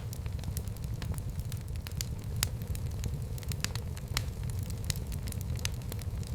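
Fire burning in a fireplace: irregular sharp crackles and pops, several a second, over a steady low rumble of the flames.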